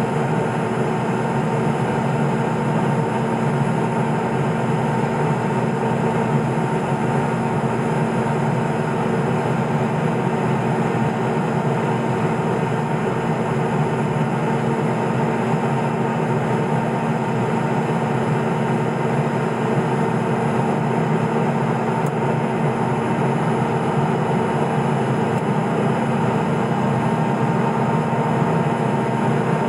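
Steady drone of a Cessna P210 Silver Eagle's Rolls-Royce 250 turboprop engine and propeller heard inside the cockpit, a constant hum made of several fixed tones that does not change in pitch or loudness.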